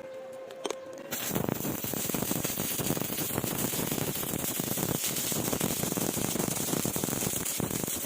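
Electric arc welding: the arc strikes about a second in and keeps up a dense, steady crackle of fast pops and sizzle. A faint steady hum is heard before the arc starts.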